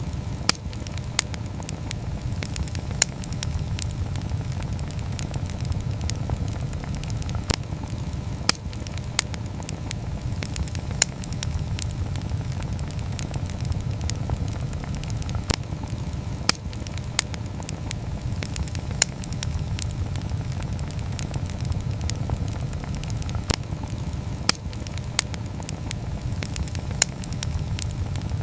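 Wood campfire crackling, with sharp pops at irregular intervals, a few every couple of seconds, over a steady low rumble.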